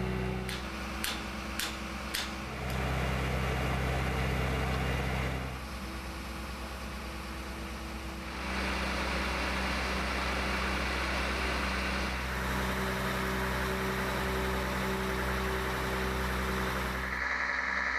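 Engine of a road-rail catenary maintenance truck running steadily, with a few sharp clicks about a second or two in. It drops in level about five seconds in and comes back up about three seconds later.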